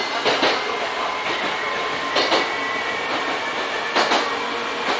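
Electric commuter train running, heard from inside its front cab: steady running noise with a faint, steady high whine, and the wheels knocking over rail joints three times, roughly every two seconds.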